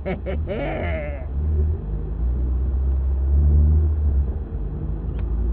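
Steady low vehicle rumble of engine and road noise, with a brief wavering, voice-like cry in the first second or so.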